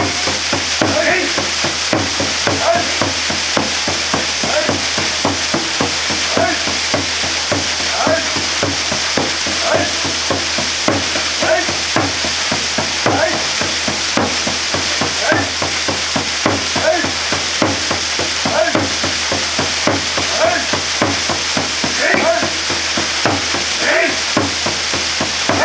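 Waterfall pouring steadily onto rock and water, a continuous rushing hiss with many small splashes through it.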